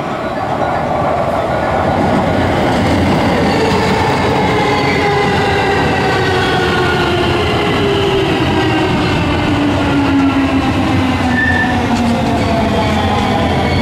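JR West 207 series electric train pulling into a station: a steady rumble of wheels on rail under a motor whine that falls steadily in pitch as the train slows to stop.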